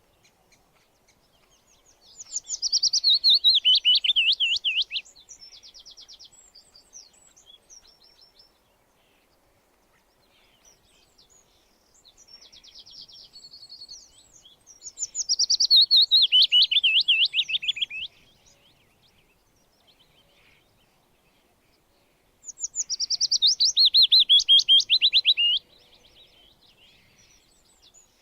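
A songbird singing three loud phrases, each a rapid trill of notes falling in pitch and lasting about three seconds. Fainter, higher trills sound in the gaps between phrases.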